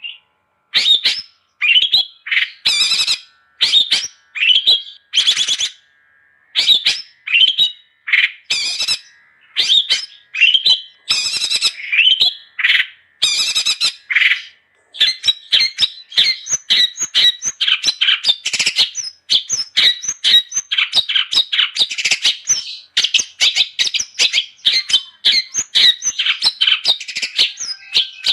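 Long-tailed shrike (cendet) calling in full, constant song: a string of short, harsh calls about one a second, which about halfway through runs into fast, almost unbroken chattering.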